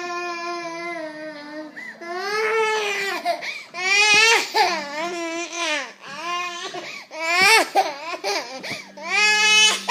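Baby crying in long, loud wails, upset at being denied her pacifier. The first wail is held steady, then the cries rise and fall in pitch, loudest around halfway and near the end.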